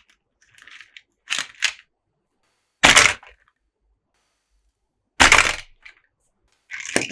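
Close-up handling noises from toy unboxing: a series of short, dry rustles and scrapes with dead silence between them. The two loudest come about three and five seconds in.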